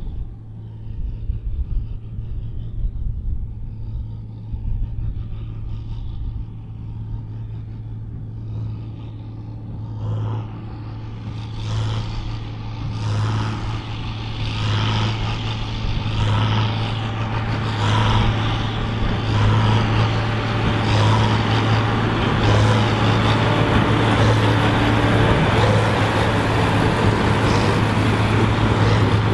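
John Deere 4955 tractor's six-cylinder diesel running hard under load, pulling a Krone BigPack big square baler. The baler's plunger knocks regularly, about once every second and a half. The whole sound grows steadily louder from about a third of the way in.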